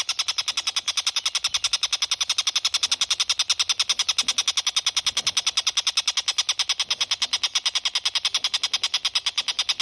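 Tengkek buto (collared kingfisher) calling in a fast, steady chatter of sharp notes, about ten a second, without a break.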